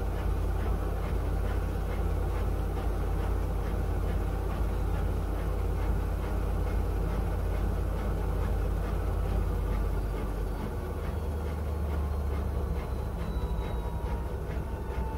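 Miele W1 front-loading washing machine running mid-programme: a steady low motor hum with a regular swishing pattern. About ten seconds in the hum changes and drops slightly, and a faint whine glides downward near the end.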